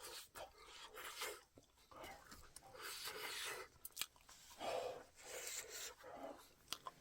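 Close-up sounds of someone eating a roasted sweet potato: irregular chewing and breathy mouth noises with small clicks.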